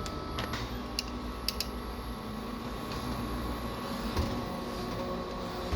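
Steady low mechanical hum of workroom machinery, with a few light clicks and a single knock about four seconds in.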